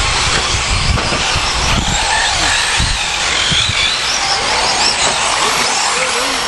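Several radio-controlled 4WD short course trucks racing, their motors whining and rising and falling in pitch as they speed up and slow down. A low rumble sits under them for the first few seconds.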